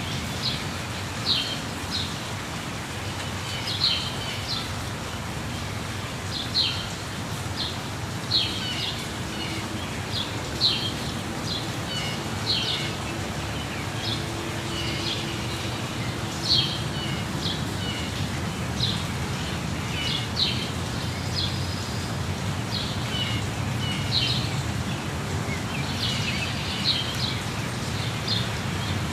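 Steady rushing water of a waterfall with birds chirping over it, short high calls coming every second or two.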